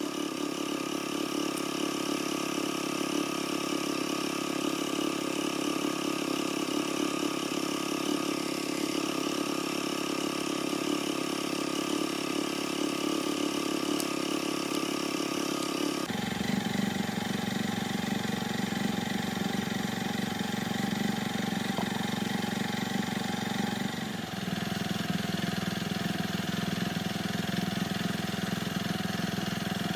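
Motorcycle engine idling steadily. About halfway through its note drops to a lower steady pitch, with a smaller change a few seconds later.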